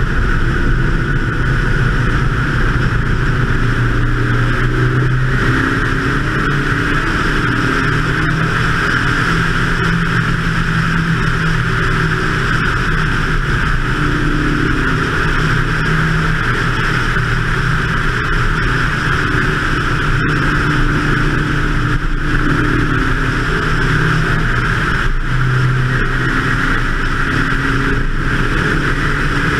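BMW 2002 race car's engine driven hard around a circuit, its note rising and falling as it accelerates and lifts through the corners, under a steady rushing hiss of wind over the roof-mounted camera.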